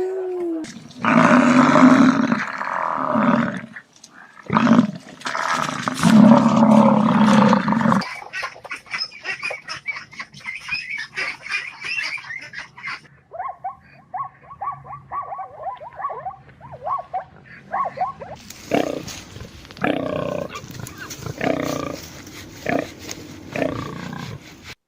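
A run of different animal calls in turn. Loud, rough roar-like calls come first, then a fast pulsing chatter, then a string of short, repeated higher calls.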